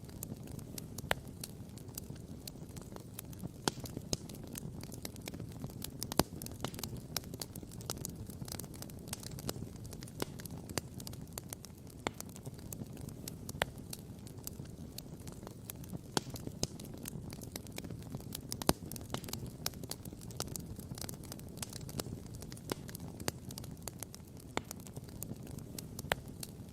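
Wood campfire crackling and popping: many sharp irregular pops over a steady low rumble.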